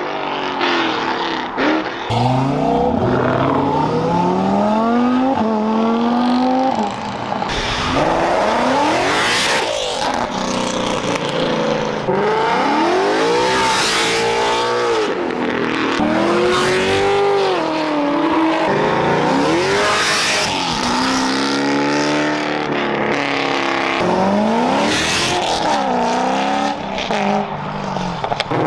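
A loud car engine revved hard over and over, its pitch climbing and dropping each time, with a hissing tyre noise between the revs.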